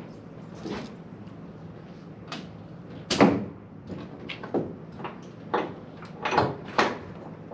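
A series of knocks and clunks, the loudest about three seconds in, over a faint steady low hum.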